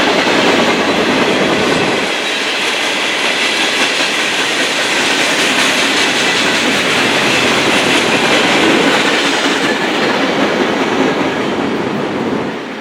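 A train passing close by: railcars rolling on the rails with a loud, steady rumble and rattle that drops away near the end.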